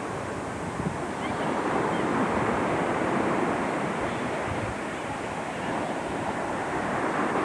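Ocean surf washing ashore in a steady wash with gentle swells, mixed with wind on the microphone.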